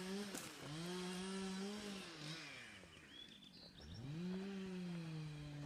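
A chainsaw revving up and holding high, falling away about two seconds in, then revving up again about four seconds in and running on at speed.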